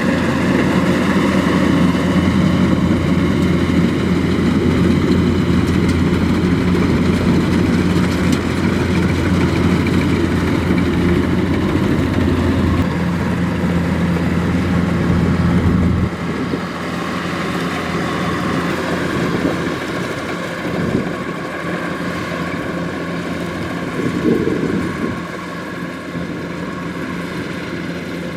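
Kubota DC-105X rice combine harvester running steadily with a strong low engine hum. A bit past halfway the low hum drops away and the machine sounds quieter, with a brief swell a few seconds before the end.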